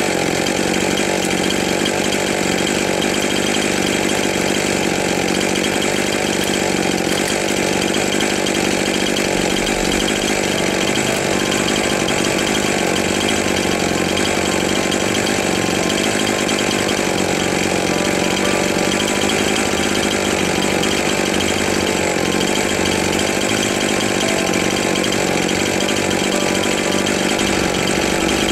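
Two-stroke chainsaw engine running at a steady idle, close by, with no revving or cutting.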